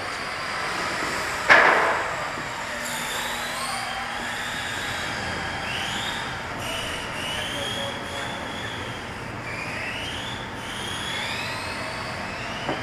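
Electric RC cars' motors whining on the track, the pitch repeatedly rising and falling as they accelerate and slow. There is a sharp knock about a second and a half in.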